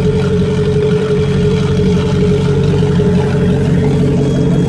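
V8 inboard engine of a 1999 Mariah bow rider running steadily through its through-hull exhaust, a low even burble with a steady higher whine over it.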